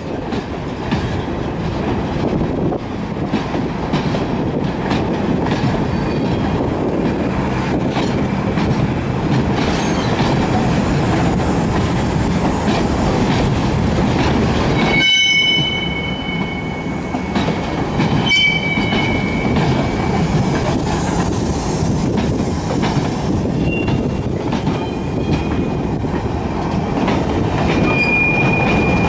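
Freight train of loaded mineral hopper wagons rolling past close by: a steady wheel-on-rail rumble with clickety-clack over the rail joints. Brief high-pitched wheel squeals come a few times, from about halfway through, as the wagons run through the switch into the siding.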